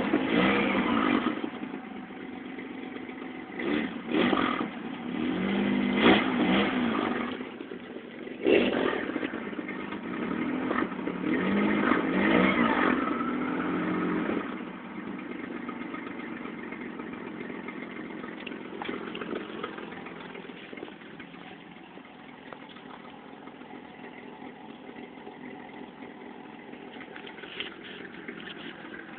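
Car engine revved in several short bursts, the pitch rising and falling with each, then settling to a steady idle about halfway through.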